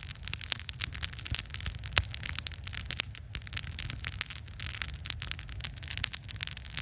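Wood campfire burning hot, with dense, irregular crackling and popping, many snaps a second, over a steady low rumble.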